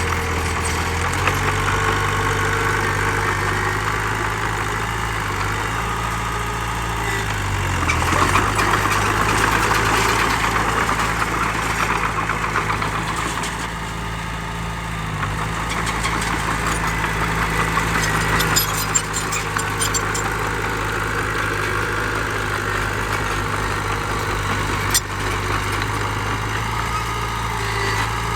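Heavy diesel engine of earthmoving machinery running steadily, working harder for a few seconds about eight seconds in before settling back. A couple of sharp knocks sound later on.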